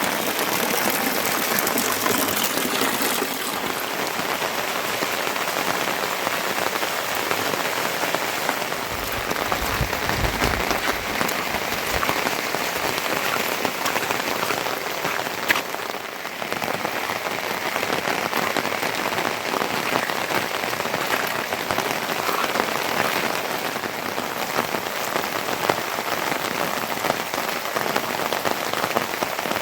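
Steady heavy rain falling, a dense, even patter of drops, with a brief low rumble about ten seconds in.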